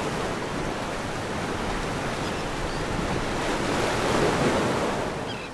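Steady rush of sea waves and wind, fading out near the end.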